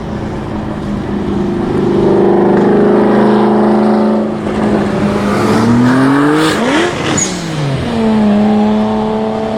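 Sports car engines running at a steady note. About five seconds in, one revs up hard as the car accelerates past, its pitch climbing and then dropping sharply as it goes by near seven seconds. A steady engine note follows.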